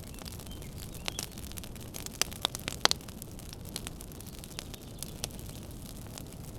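Wood fire crackling in a fireplace: a steady low rumble of flames with scattered sharp pops and snaps, a quick run of louder pops near the middle.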